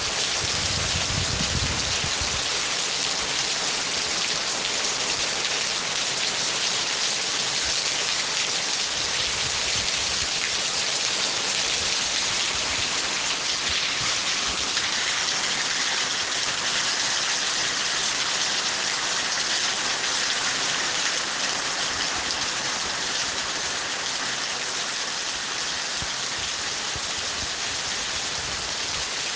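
Steady heavy rain falling, an even continuous hiss of drops, with a faint low rumble in the first couple of seconds.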